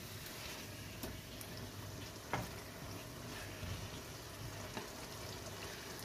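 Minced meat with potatoes and peas sizzling in oil in a non-stick pot as a wooden spatula stirs it, with a few light taps of the spatula against the pot. This is the frying stage after the oil has separated from the mince.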